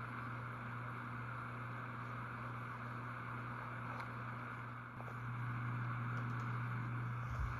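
Minka Aire Supra 44-inch ceiling fan with a 188x15 motor running steadily: a low motor hum under the rush of air from the blades. About five seconds in, the sound dips briefly and then comes back a little louder.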